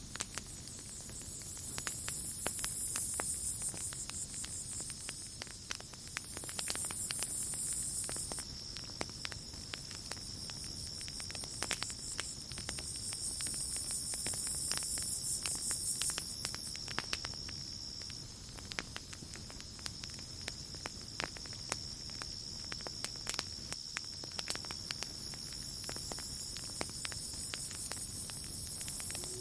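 Campfire crackling with irregular sharp pops, over a steady high-pitched cricket trill. A second, higher insect chorus swells in and out, a few seconds at a time.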